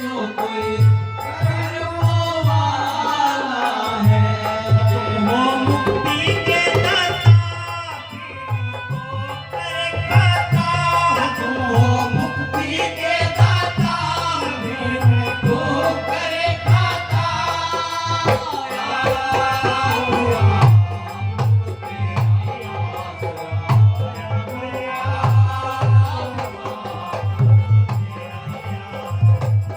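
Devotional shabad sung by a solo voice with a melodic line that bends and glides, over a steady rhythmic hand-drum accompaniment.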